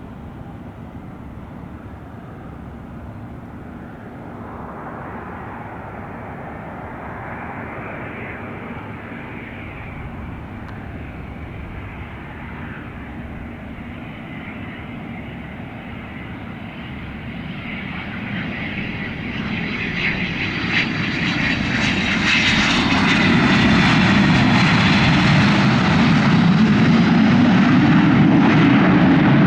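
Airplane engines running and growing steadily louder, swelling over the second half to a loud rumble with a high whine, as an aircraft passes close or runs up power.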